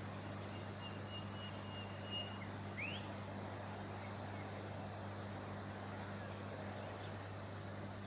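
A bird's faint thin whistle held for about two seconds, then a quick rising whistle, over a steady low hum and hiss.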